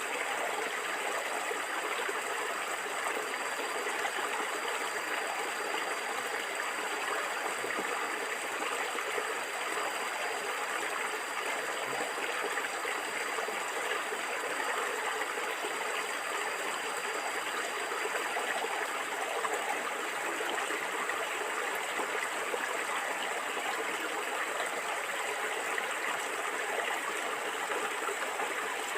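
Stream water flowing and gurgling steadily over stones, an even rushing noise that does not change.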